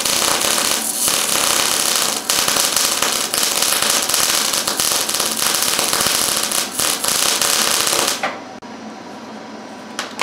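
Electric welding arc crackling and hissing steadily while a bead is laid. It cuts off abruptly about eight seconds in, then flares once more briefly near the end.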